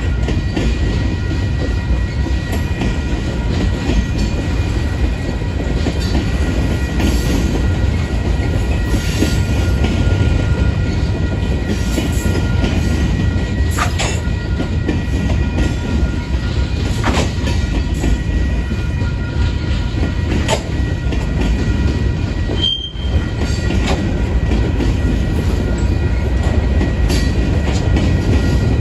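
Freight cars rolling past: a steady, loud rumble of steel wheels on rail with a faint, steady high-pitched squeal and a few sharp clicks from the wheels and joints, with a brief dip in the sound about three quarters of the way through.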